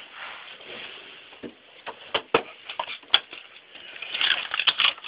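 Rummaging through a plumber's tool bag: metal fittings and tools clinking and knocking against each other, with the bag rustling, heavier about four seconds in.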